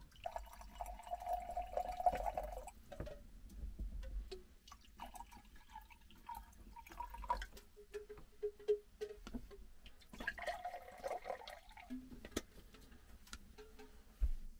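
Water pouring into a container in three short spells, with small knocks and clicks between them.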